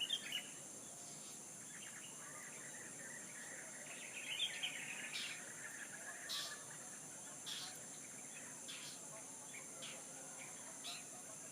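Small birds chirping: a quick flurry of chirps at the very start, a busier run about four seconds in, then short single calls roughly once a second, over a steady high-pitched drone.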